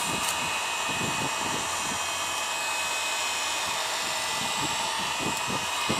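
Electric heat gun blowing steadily, a fan hiss with a faint motor whine, as it heats a fuel-line part to soften it for a snug fit.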